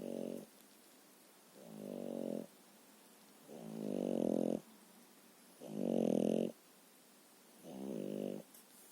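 French bulldog snoring, one pitched snore about every two seconds, each lasting close to a second.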